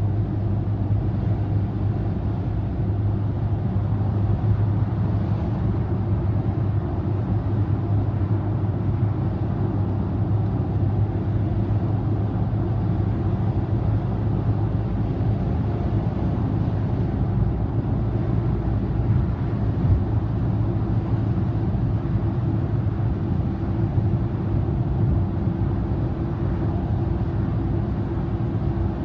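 Car cruising on an expressway, heard from inside the cabin: a steady low drone of road and engine noise.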